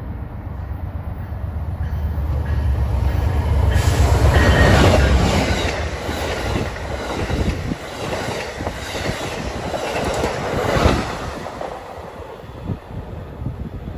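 Passenger train passing at speed: the locomotive's low rumble builds over the first few seconds and peaks as it goes by. The coaches follow with a rhythmic clatter of wheels over the rail joints, which eases off over the last few seconds as the train pulls away.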